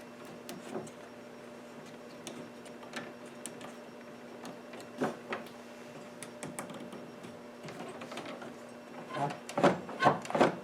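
Small clicks and knocks of parts being handled and fitted on a reed pump organ during reassembly, over a faint steady hum, growing into a quick run of louder knocks near the end.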